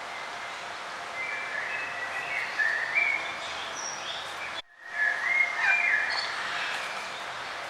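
Songbirds chirping and singing in short bright phrases over a steady outdoor hiss, in two bursts of song. Just past halfway the sound cuts out completely for a fraction of a second.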